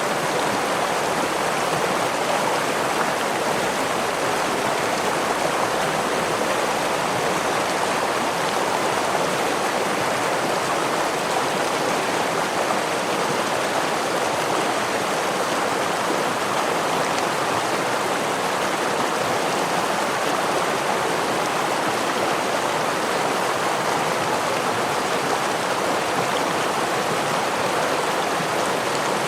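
Stream water rushing over rocks in a steady, unbroken wash of noise.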